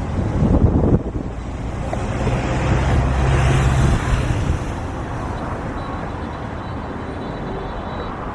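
A vehicle passes close by, its sound swelling to a peak about three and a half seconds in and then fading. Wind buffets the microphone near the start.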